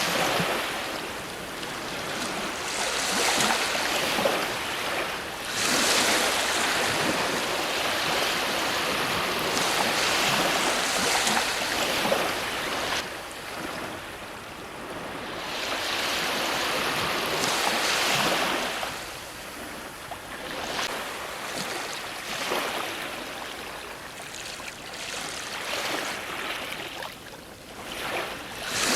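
Ocean waves breaking on a shore, a steady wash of surf that swells and ebbs every few seconds.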